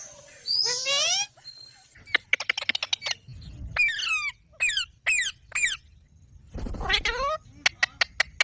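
Green parrots calling: a long wavering call that rises in pitch, rapid ticking chatter, a run of short screeches that fall in pitch, another long rising call, then a few quick sharp chips near the end.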